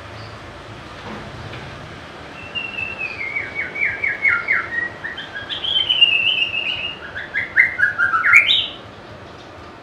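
White-rumped shama singing: a run of clear whistled phrases, quick descending notes and rapid trills, ending on a sharp rising note.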